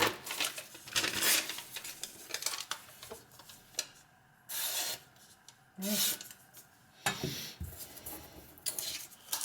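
A steel knife blade scraping and rubbing in several separate strokes, each lasting from under a second to about a second and a half, with short pauses between.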